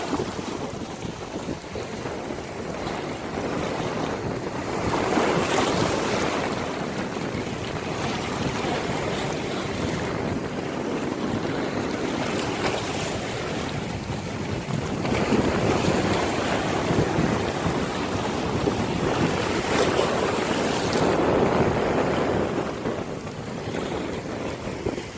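Sea waves breaking and washing up a beach, swelling and ebbing in a few long surges, with wind buffeting the microphone.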